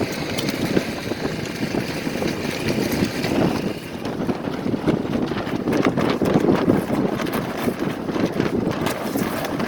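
Strong gusty wind buffeting the microphone aboard a small sailboat under motor in rough water, a dense, fluttering rush with irregular knocks mixed in.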